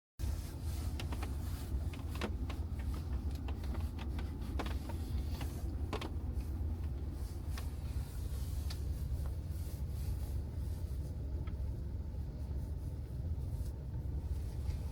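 Car driving, heard from inside the cabin: a steady low road and engine rumble, with scattered clicks and rattles, most of them in the first half.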